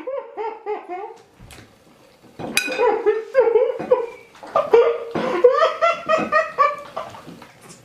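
A person laughing hard in fits of quick, repeated ha-ha pulses, with short breaks between fits.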